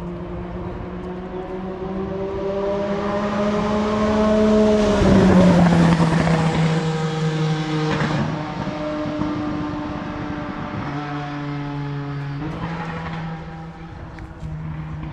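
A Formula One car's engine on the track rises in pitch as it approaches and is loudest as it passes about five seconds in, where the pitch drops. It then runs on at a steadier, lower note, with two sudden pitch changes later on.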